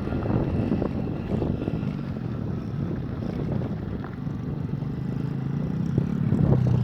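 Small motorcycle engine running, getting louder in the last second or so.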